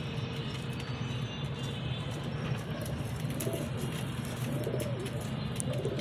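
Pigeon cooing: a low, arching coo repeated about every second and a quarter, starting about three seconds in, over a steady low hum.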